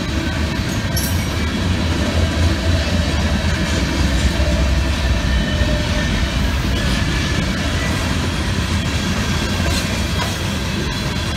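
Freight cars of a CSX mixed freight train (boxcars and covered hoppers) rolling past, their wheels on the rails making a steady, heavy low rumble that swells slightly a few seconds in.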